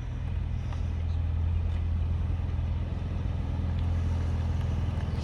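A vehicle engine running steadily at low revs, a low hum that grows gradually louder.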